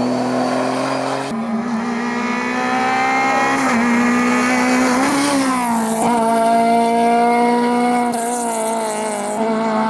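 Rally car engine running at high revs with tyre squeal. The engine note dips and climbs again about halfway through, and the sound changes abruptly twice.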